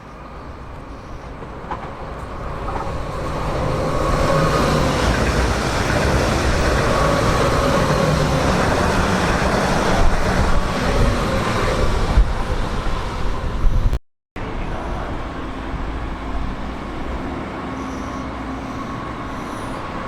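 A train passing close by on the tracks, a steady rumble with a faint whine that builds over the first few seconds and stays loud. About two-thirds of the way through, the sound cuts abruptly to another steady, slightly quieter train passage.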